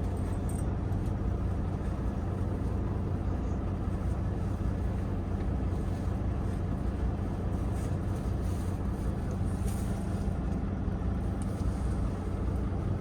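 Steady low hum of a parked semi truck's engine idling, even and unchanging.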